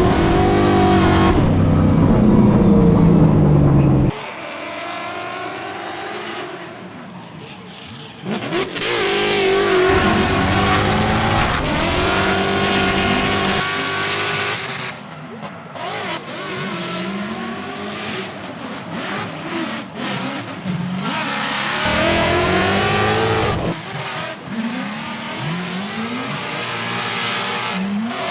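Drift car engines revving hard and rising and falling in pitch through competition runs, with several abrupt jumps in sound between shots.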